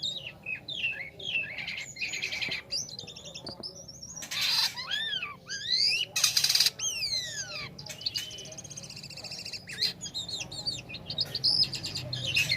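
A jalak kapas starling singing a varied, chattering song: quick chirps and rising and falling whistles, broken by several short, harsh, buzzy rattles.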